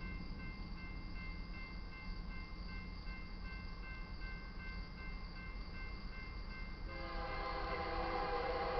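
Approaching GE Dash 9-44CW freight locomotives rumbling, with a high ringing repeating about twice a second. About seven seconds in, the lead locomotive's air horn starts sounding a loud chord.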